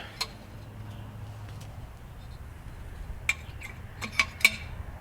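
Light metallic clinks and taps as small metal grill parts are picked up and handled: one click just after the start, then a quick cluster of about five near the end, the last ringing briefly.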